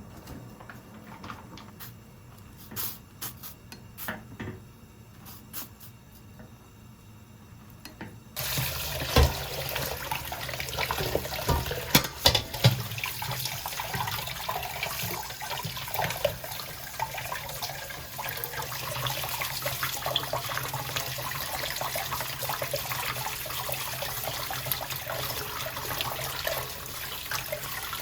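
A few light clicks and handling knocks, then about eight seconds in a kitchen tap comes on and water runs steadily into a sink, with a few clunks of something knocked in the sink.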